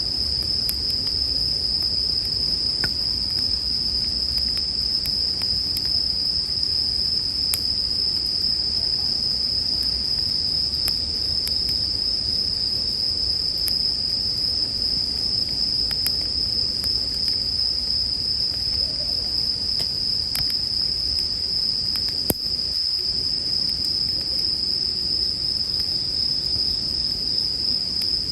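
Bell crickets (suzumushi) singing in a steady, unbroken high ringing chorus over the soft noise and occasional crackles of a campfire. One sharp pop comes about two-thirds of the way through.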